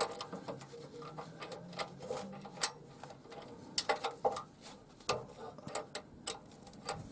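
Irregular light metallic clicks and taps of a spanner and screwdriver on the rocker-arm adjuster screws and lock nuts of a VW 1600 CT air-cooled engine, as they are loosened off.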